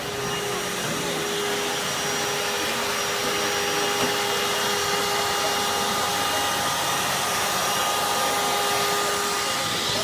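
Vacuum cleaner running steadily, a rush of air with a constant motor whine. Its brushed motor runs again now that the carbon brushes, which had been held in place by packed dust, are freed.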